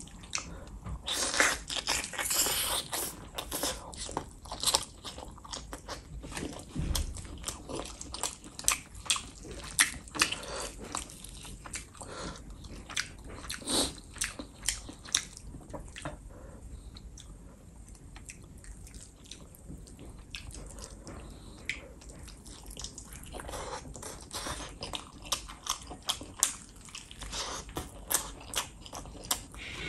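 Close-miked eating of curried chicken drumstick meat and rice by hand: biting and chewing with many sharp mouth clicks, busiest in the first few seconds and again near the end, quieter in the middle.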